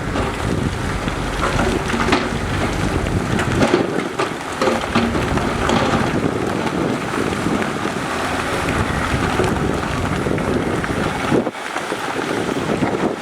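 Heavy construction machinery working: diesel engine noise with scattered knocks and clanks. The deep rumble drops away about four seconds in.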